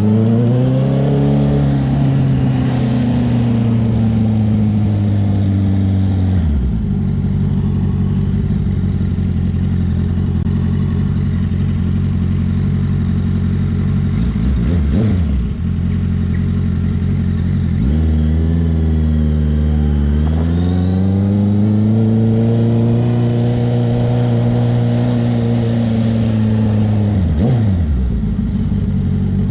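Honda CB650R's inline-four engine through a CS Racing aftermarket exhaust, ridden in town: it pulls up through the revs, holds, drops back to a steady idle with one quick rev blip, then pulls away again and drops off near the end.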